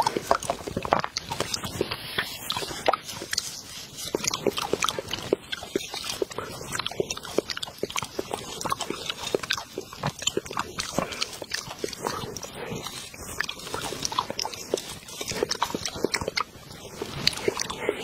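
Close-miked eating sounds: chewing with many quick, wet mouth clicks and smacks.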